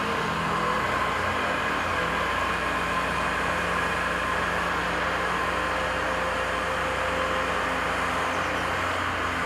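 Diesel engine of a compact construction machine running steadily, a constant drone with a hiss over it.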